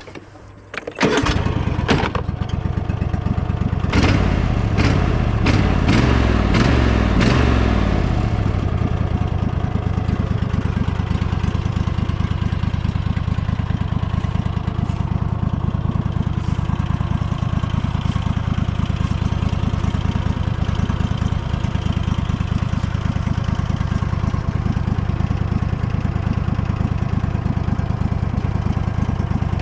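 Cub Cadet riding mower's engine starting about a second in. Its pitch wavers for several seconds, then it settles into steady running, which the owner calls running good.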